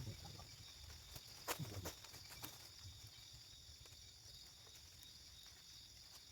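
Faint forest ambience: a steady high-pitched insect drone, with two brief knocks or rustles about a second and a half in.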